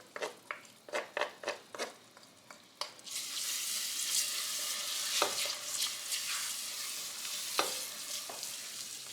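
A spoon taps and scrapes against a cooking pot, then about three seconds in minced garlic and ginger go into the pan of simmering shallots and a steady sizzle starts. Two sharp knocks of the spoon on the pot come partway through the sizzle.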